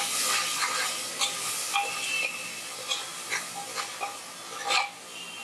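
Spice-and-water masala, just poured into hot oil with fried onions in an aluminium pressure cooker, sizzling as it fries, the sizzle dying down over the few seconds. A metal spoon stirs and scrapes against the pot with several sharp clinks.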